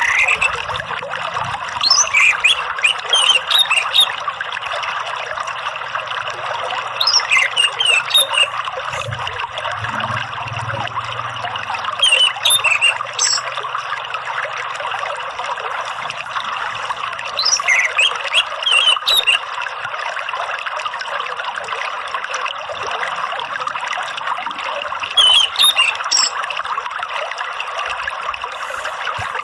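Steadily trickling running water, with an orange-headed thrush singing short bursts of quick high chirps and whistles five times, about every five seconds.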